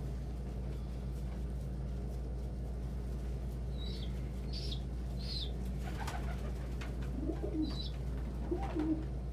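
Domestic pigeons cooing in low warbling calls, mostly in the last couple of seconds, with four short high chirps in the middle. A steady low hum runs underneath.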